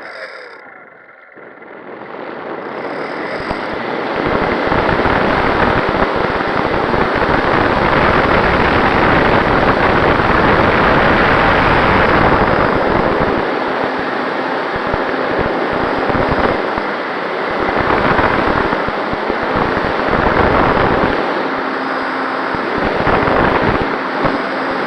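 Radio-control MX2 model plane in flight, heard through its onboard camera: wind rushing past the microphone over the drone of the motor and propeller. The noise falls away sharply at the start, builds back up over a few seconds, then stays loud, swelling and easing.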